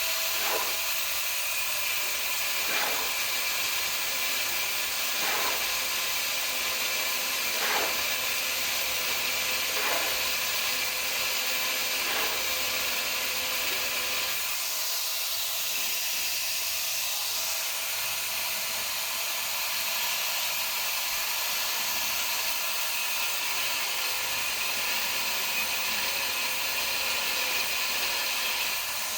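Electric arc welding on a steel I-beam: a steady hiss with faint repeated falling sweeps during the first half.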